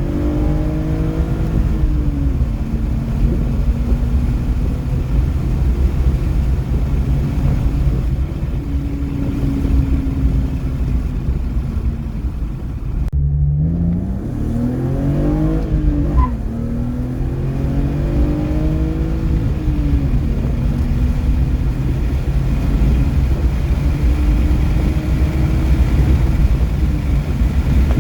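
BMW E36 323ti's 2.5-litre straight-six, breathing through a debaffled airbox, pulling under full acceleration. The revs climb in each gear and drop at each upshift, over heavy road and wind noise. About 13 seconds in there is an abrupt cut to another run.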